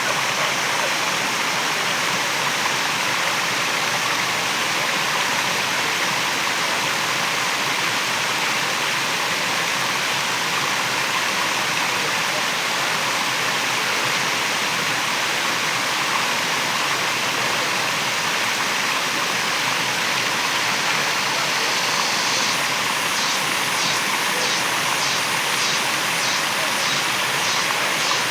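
Waterfall rushing steadily in an even, continuous roar of falling water. A high, rapidly repeating chirp of about two pulses a second joins it near the end.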